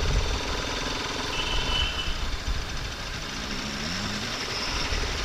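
Road traffic heard from a moving motorcycle: engines running with a steady rumble. There is a short high-pitched beep about a second and a half in, and an engine revs up briefly past the middle.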